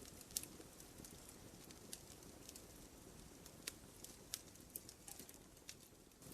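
Wood fire crackling, with irregular sharp pops and snaps, the loudest about half a second in, over a faint low rumble.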